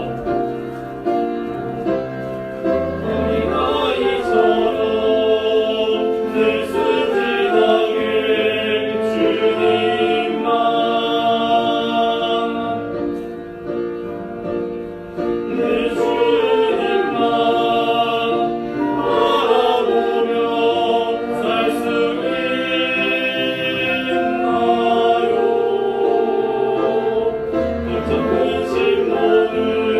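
Church choir singing a worship song with orchestral accompaniment, a bass line under sustained sung and played notes.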